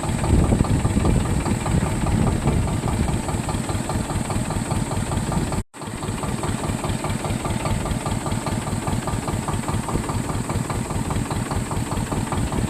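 Swaraj 724 tractor's two-cylinder diesel engine running steadily with an even, throbbing beat. The sound cuts out for an instant about halfway through.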